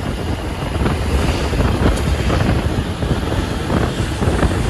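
Truck running on the highway, a steady loud rumble with wind buffeting the microphone.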